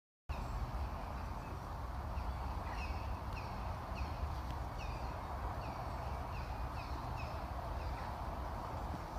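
Birds calling at a green woodpecker nest: short downward-sliding notes repeated about two to three times a second, steady from about a third of the way in, over a continuous rushing background.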